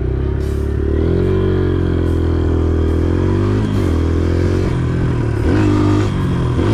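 Motorcycle engine under hard throttle, its pitch climbing, dropping back and climbing again several times, with quick throttle blips about two-thirds of the way in and near the end.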